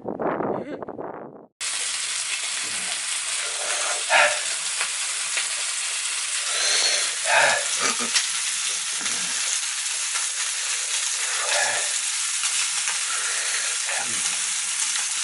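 Food sizzling steadily in a frying pan, starting abruptly about a second and a half in after a short stretch of other noise.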